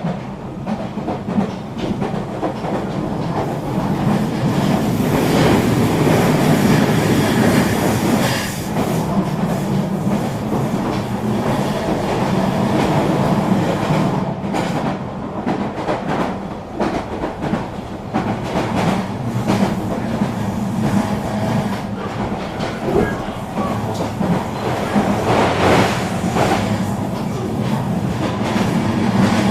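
Regional electric train running steadily along the line: a continuous rumble with a low hum and irregular clicks of the wheels over the rails.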